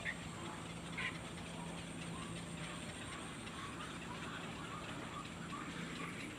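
Small birds chirping: one sharp call about a second in, then a run of short, faint chirps about two a second, over a steady low hum.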